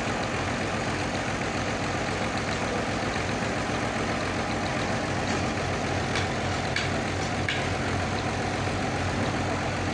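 Sawmill engine running steadily with an even hum, with a few faint clicks or knocks in the middle.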